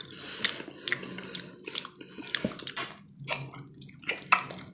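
Wet chewing and lip-smacking of a person eating soft cooked camel brain, with many short sharp clicks.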